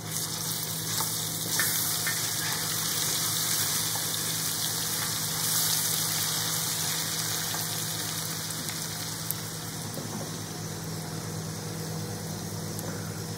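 Ginger-garlic paste and sliced onions sizzling steadily in hot oil in a wok as they are stirred.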